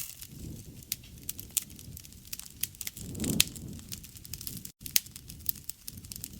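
Wood fire crackling: frequent sharp pops and snaps over a low rumble of burning flames, with a louder swell of flame noise a little past halfway. The sound cuts out completely for an instant about three-quarters of the way through.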